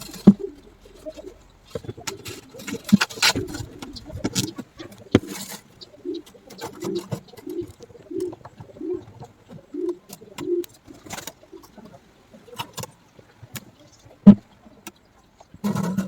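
A bird calling in a run of low, evenly spaced notes, about eight in a row, among scattered clicks and knocks, one sharp knock standing out near the end.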